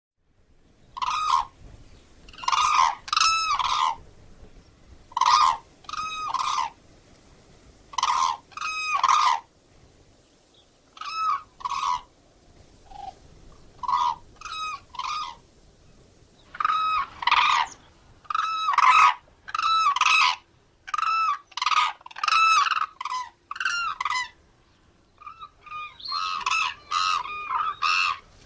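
Common crane calling: loud trumpeting calls in twos and threes with short pauses between them, coming in a quicker run near the end.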